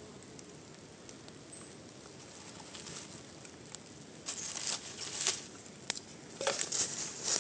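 Faint outdoor background, then from about halfway a series of short rustles and light knocks, like handling or footsteps in dry leaves and brush.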